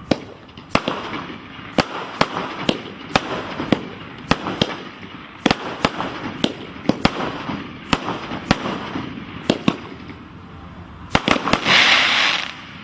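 Troya 19-shot firework cake firing: a rapid series of sharp bangs, about one or two a second. About eleven seconds in they give way to a louder, dense crackling hiss.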